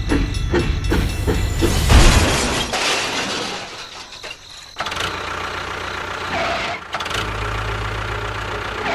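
A small engine running, with an even knocking rhythm at first and settling into a steady low hum in the second half.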